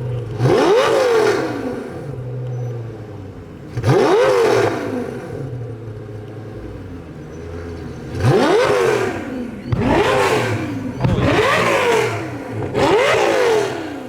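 A car engine revved repeatedly: six quick blips, each rising sharply in pitch and falling back to a steady idle between them.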